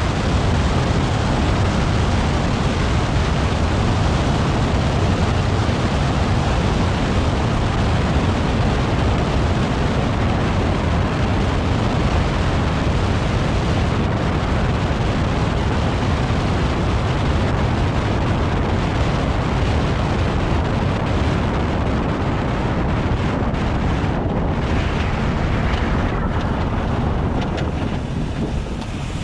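A LADA Vesta SW Cross driving on a highway at about 100 km/h: steady tyre and road rush with wind buffeting the microphone, easing slightly near the end.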